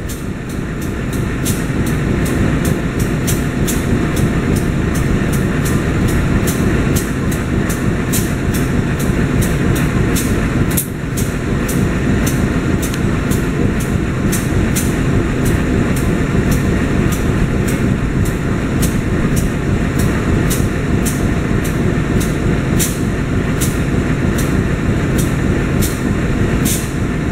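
Passenger train running through at speed: a steady rumble of the carriages on the track with a fast, regular clicking.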